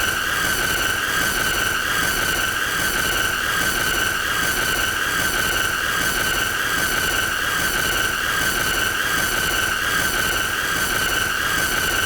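A shrill, high-pitched squealing tone held on without a break, with a row of overtones and a rough hiss underneath. It is the deliberately annoying sound the video repeats for half an hour.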